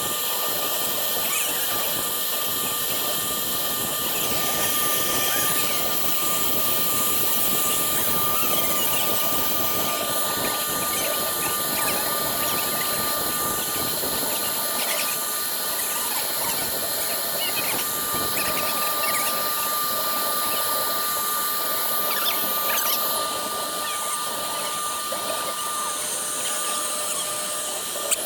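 Single-head woodworking CNC router engraving MDF: the spindle runs with a steady whine over the rasping noise of the bit cutting the board.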